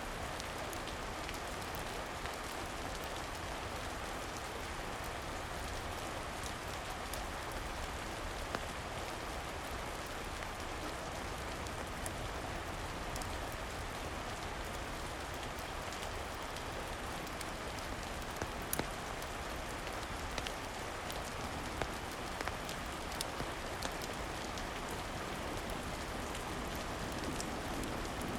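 Steady rain falling, an even hiss, with scattered sharp clicks, more of them in the second half.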